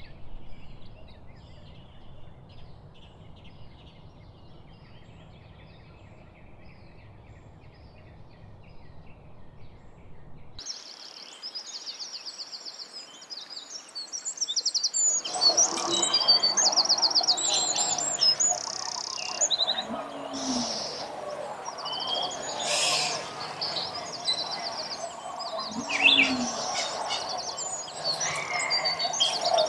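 Wild songbirds chirping, faint and sparse at first. About a third of the way in it changes abruptly to a louder, busy chorus of several birds with rapid high trills and calls, and it grows louder again around the middle.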